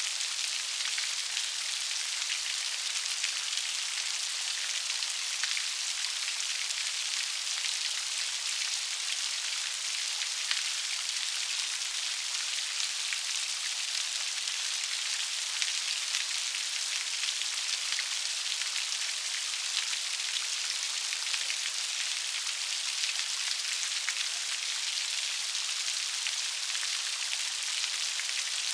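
Steady rain pattering on a surface, a dense, even hiss of many small drop impacts with nothing lower-pitched underneath.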